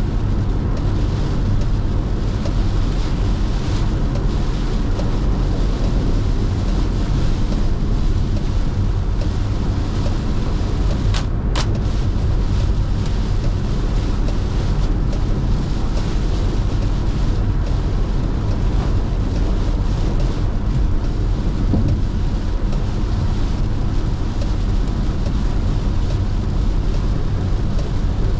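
Steady noise of a car driving in heavy monsoon rain: tyres on a wet road, with rain and wind on the car. There is a brief sharp click about eleven seconds in.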